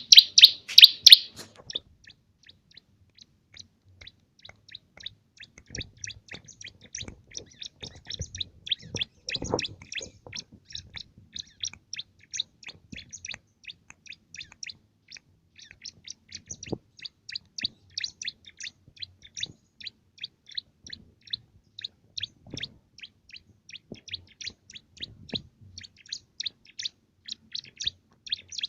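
Bar-winged prinia (cimblek) singing a long, fast run of high chirps, a song filled with canary-like phrases; loudest in the first second or so. A few faint low knocks sound underneath now and then.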